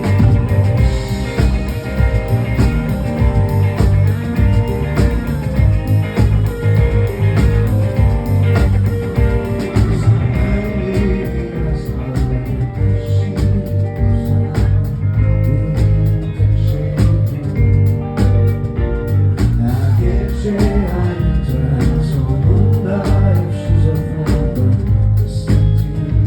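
Live rock band playing an instrumental passage: electric guitar over bass and drums with a steady beat.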